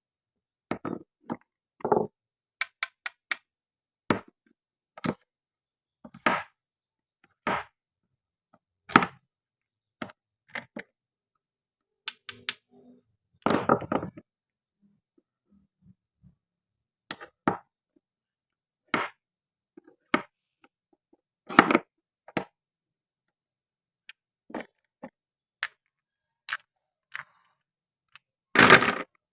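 Toy knife and wooden or plastic toy fruit and vegetables being cut and handled: sharp, irregular clacks and knocks about once a second. A couple of longer, rougher sounds come about halfway through and near the end.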